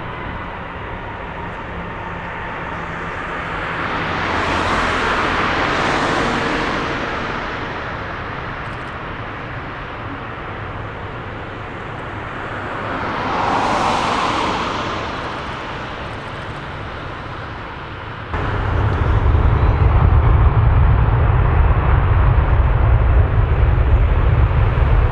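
Two road vehicles pass by one after another, each swelling up and fading away. About eighteen seconds in, a much louder, steady deep rumble sets in suddenly: jet airliner engines at takeoff thrust.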